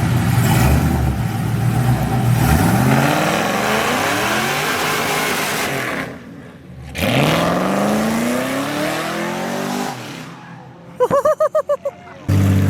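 A performance car's engine accelerating hard, its pitch climbing steadily, then climbing a second time after a brief drop-out. Near the end comes a short stuttering pitched sound.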